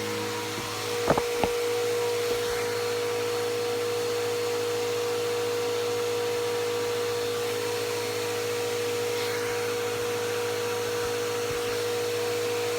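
Bissell PowerForce Helix Turbo upright vacuum running steadily with a constant whine, with two sharp knocks about a second in.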